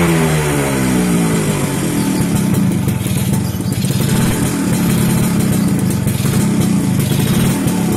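Suzuki RC two-stroke motorcycle engine with an aftermarket Alfa exhaust: the revs fall away about a second in, then it runs steadily at low revs.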